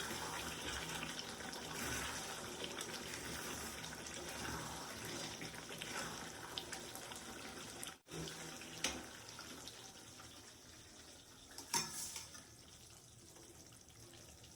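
Water running and splashing from a tap into a sink, steady at first, then quieter after a brief break about eight seconds in, with a couple of sharp clinks.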